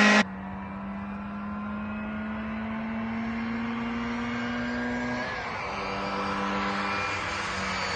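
Classic Mini rally car's engine pulling hard under load. Its note climbs steadily, drops once at about five seconds as it shifts up a gear, and then climbs again. The overall level falls sharply just after the start.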